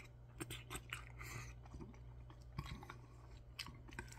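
Close-up mouth sounds of a person chewing a mouthful of soft curry rice mixed with spicy canned tuna: faint, with scattered small wet clicks and smacks.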